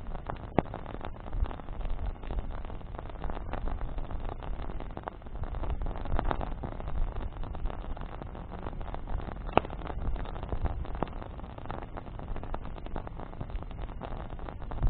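Wood campfire burning, its branches crackling with scattered sharp pops over a low steady rumble; two pops stand out, one just after the start and one about two-thirds of the way through.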